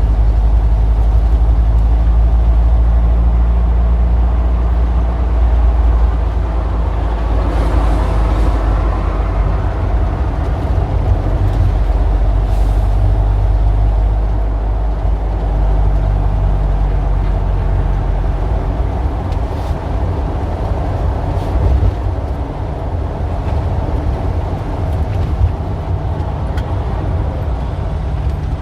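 Street traffic with a heavy vehicle's engine rumbling close by, and a short hiss about eight seconds in; the deep rumble eases off about two-thirds of the way through.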